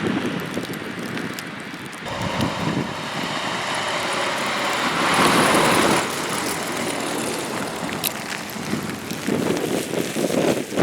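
Road traffic on a snowy highway: a vehicle's tyres hiss past, loudest about five to six seconds in, with gusts of wind rumbling on the microphone near the end.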